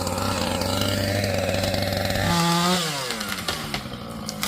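Chainsaw running steadily while cutting, then revving up sharply about two seconds in before the revs fall away, with a sharp crack at the very end.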